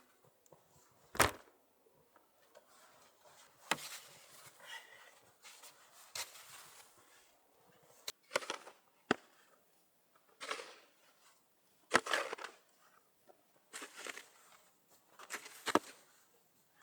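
Irregular handling noises: scattered sharp knocks and clicks with short rustles between them, the loudest a little after one second in and at about twelve seconds.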